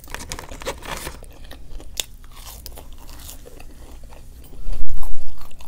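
Close-miked chewing and crunching of food, with scattered small crunchy clicks. About four and a half seconds in, a loud low bump or handling thump lasts about a second.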